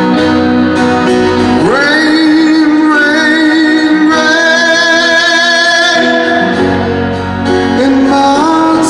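Live rock-ballad performance: a singer's voice slides up into a long held note with a slight waver about two seconds in, then climbs again near the end, over a full band with guitar accompaniment.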